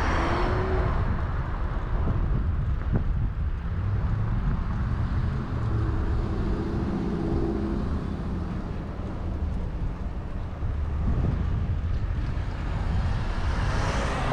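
Steady low rumble of wind on the microphone and road noise during a bicycle ride through city streets, with a motor vehicle humming past around the middle.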